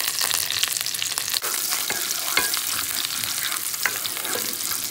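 Garlic, green chillies and curry leaves sizzling in hot sesame oil, with frequent small pops and crackles, as a spatula stirs them in the pan.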